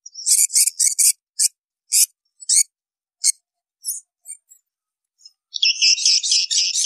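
Swiftlet twittering from a recorded lure call of the kind played to draw swiftlets into a nesting house. Quick, high chirps come in clusters, thin out to scattered single chirps, and near the end become a dense, unbroken run of rapid chirps.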